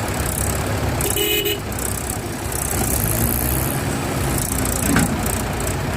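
Tractor diesel engine running steadily at low revs, with a short horn toot about a second in and a sharp click about five seconds in.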